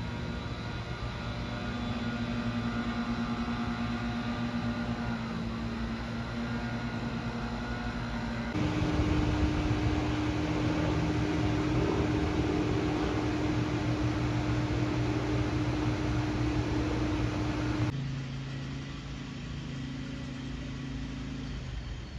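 Aircraft engines droning as planes fly over, in three segments joined by abrupt cuts, each with its own steady tones; in the first, one tone drops in pitch as the plane passes.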